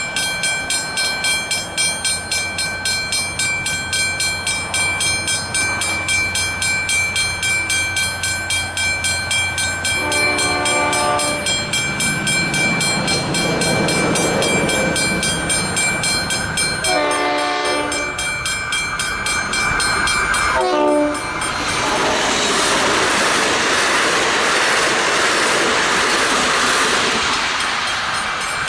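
Westinghouse Hybrid level-crossing bell ringing in a quick, regular rhythm. A train sounds its horn three times, at about 10, 17 and 21 seconds in, then runs over the crossing with a loud, steady rush of wheel and rail noise.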